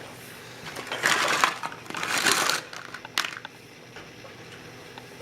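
Handling noise: two short scratchy bursts about a second apart, then a single sharp click.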